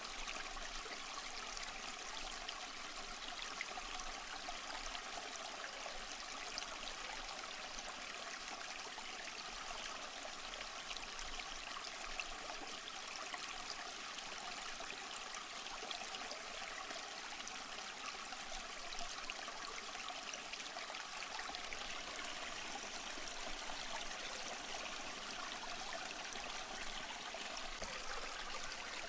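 Small stream flowing and trickling over rocks, a steady babbling rush of water with fine splashes.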